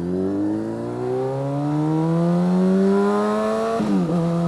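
Honda CBR sport bike engine accelerating, its pitch rising steadily for nearly four seconds, then falling quickly near the end and holding steady.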